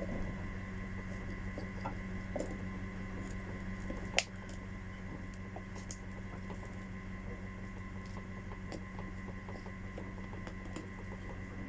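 A steady low hum with scattered light clicks and taps, and one sharper click about four seconds in.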